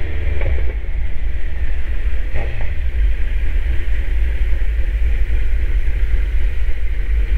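Kawasaki Z900 motorcycle riding at a steady speed, a loud, even low rumble with no revving.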